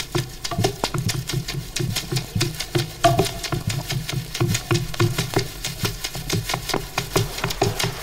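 Rapid, irregular clicking and knocking, several hits a second, over a low pulsing beat.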